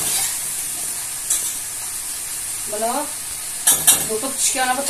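Food frying in hot oil in a pot, sizzling steadily, while a spoon stirs it and clicks against the pot a few times, twice in quick succession near the end.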